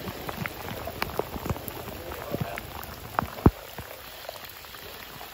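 Rain falling over a steady hiss, with individual drops tapping at irregular intervals; one sharper tap comes about three and a half seconds in.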